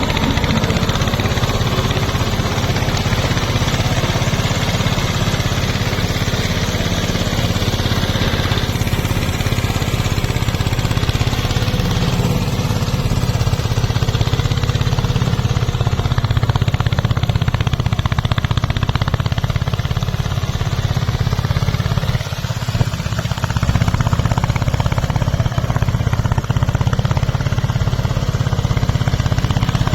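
Eicher tractor's diesel engine running steadily, with a short dip in level about two-thirds of the way through.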